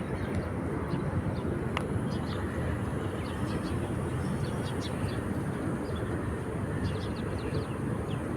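Seashore ambience: a steady low rumble of sea and wind, with faint short high ticks scattered through.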